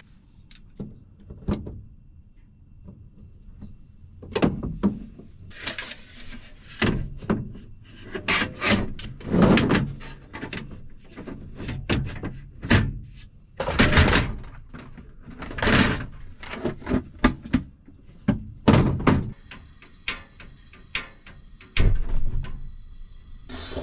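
Camping gear being handled in the cramped shell of a pickup-bed camper: a string of knocks, scrapes and rustles, some brief and some drawn out, with short pauses between them.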